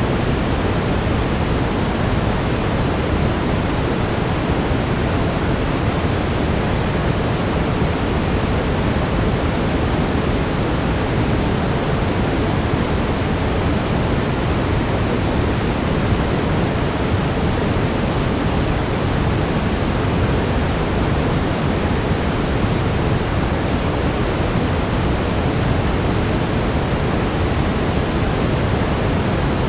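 Brown noise: a steady, even hiss weighted heavily toward the low end, unchanging throughout.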